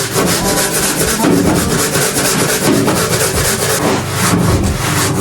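Hand scrubbing of a grimy surface: rapid back-and-forth scrubbing strokes, about five a second, running steadily.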